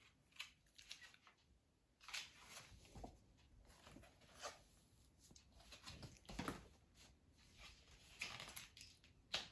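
Near silence in a small room, broken by faint, scattered rustles and handling noises every second or so.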